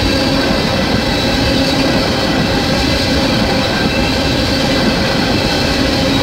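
Tank cars of a Canadian National freight train rolling past close by at speed: a loud, steady rumble of steel wheels on rail, with a thin, steady high whine over it.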